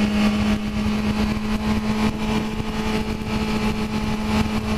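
Yamaha YZF-R6 sport bike's inline-four engine running at a steady pitch while cruising, under a constant rush of wind and road noise heard from the rider's seat.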